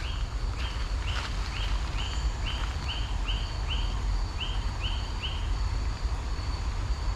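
A bird calling the same short upslurred note over and over, about two to three times a second, a dozen times in a run that stops about five seconds in.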